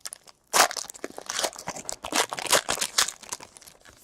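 Foil trading-card pack wrapper crinkling and being torn open by hand: a busy run of short crinkles, loudest about half a second in.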